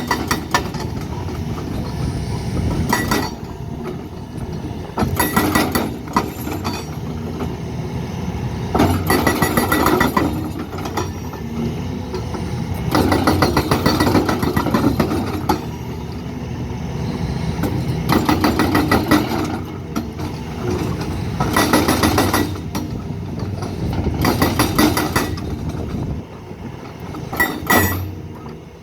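Heavy construction machinery running steadily, with bursts of rapid metallic knocking and rattling every few seconds.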